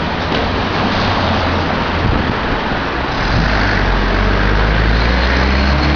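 A car engine at idle, a steady low hum that grows stronger about halfway through, under a loud, even rushing noise.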